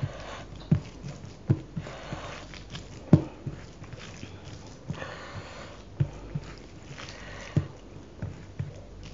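Close-miked eating sounds: wet chewing and mouth smacks, heard as short low knocks about once a second, alongside squelching as a bare hand mixes rice and chicken curry on a steel plate.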